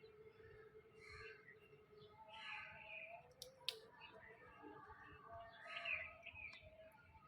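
African grey parrot making quiet whistles, chirps and mumbled chatter, with two sharp clicks a little past the middle.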